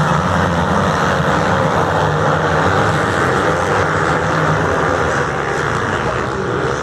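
A pack of motocross motorcycles racing, many engines running at high revs together as one loud, steady din.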